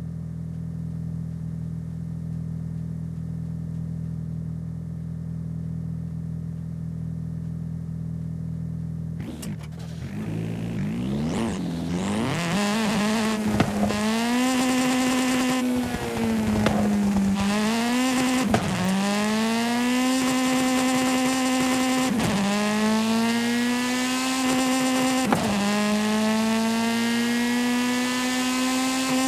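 Video-game car engine idling steadily, then revving up about nine seconds in and accelerating through the gears, its pitch climbing and dropping sharply at each of several gear changes.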